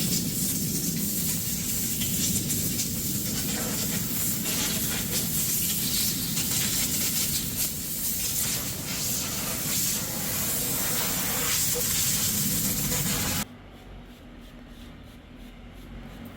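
Loud steady hissing spray, which stops abruptly about thirteen seconds in and leaves a faint low hum.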